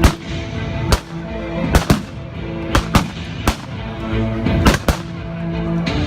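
Gunfire from a battle reenactment: about nine sharp shots at irregular intervals, some in quick pairs, with music of held notes playing underneath.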